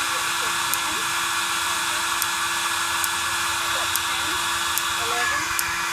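Steady rushing hiss of gas flowing into a homemade pulse jet engine during a start attempt, with a sharp spark click from its piezo igniter about once a second; the engine has not yet lit.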